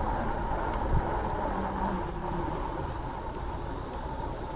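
Brakes squealing, a thin high-pitched squeal lasting about two seconds, over steady road and wind noise that drops a little after the squeal ends.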